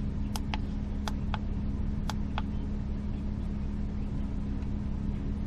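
2005 BMW 325i's inline-six engine idling steadily, heard from inside the car. Six short sharp clicks come in pairs during the first two and a half seconds.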